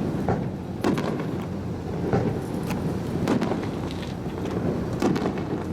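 Fireworks bursting overhead in a display: a run of sharp booms and cracks, roughly one a second, over a constant low rumble.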